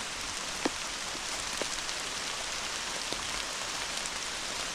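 Heavy rain falling: a steady hiss with scattered sharp drop ticks, one louder tick a little under a second in.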